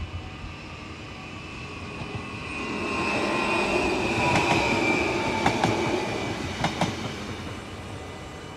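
Electric passenger train passing over a level crossing: the rush of wheels on rail builds, peaks with a high whine and a few sharp clacks of wheels over the rail joints, then fades away.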